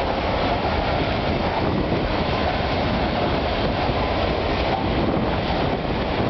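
Coal hopper wagons of a freight train rolling steadily past, their wheels making a continuous noise on the rails.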